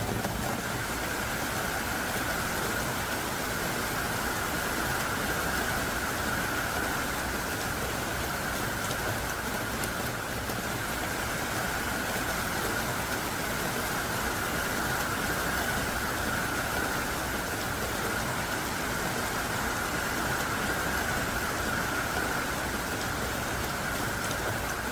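Heavy downpour of thick, driving rain, a steady dense hiss with no let-up.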